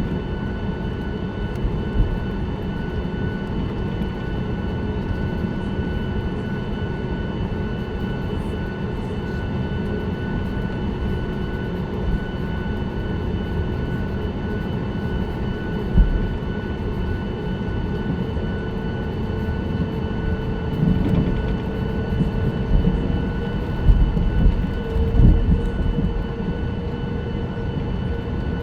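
Cabin noise inside a Boeing 737-9 MAX, its CFM LEAP-1B engines and airflow making a steady drone with faint steady tones over it. There are single thumps a couple of times, and more frequent bumps and rattles in the last third.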